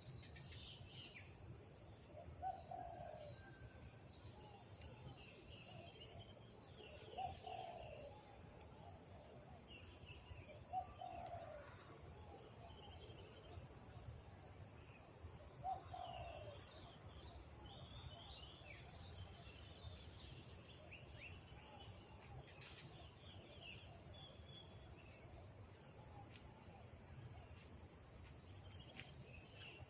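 Faint rural morning ambience: a steady high insect chorus with scattered short bird chirps. A short, lower call, the loudest sound, comes four times about every four to five seconds in the first half.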